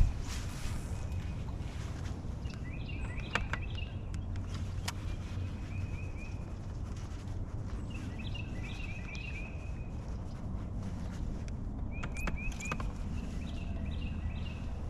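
A bird calling in short runs of quick chirps, repeated about four times, over a steady low rumble, with a few light clicks.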